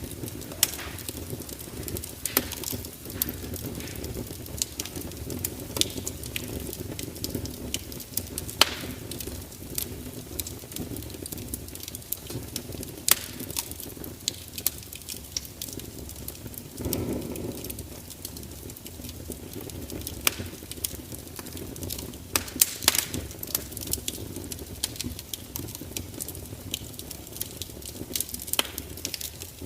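Fire crackling, with frequent irregular sharp pops over a steady low rush of the flames, and a brief deeper swell a little past halfway.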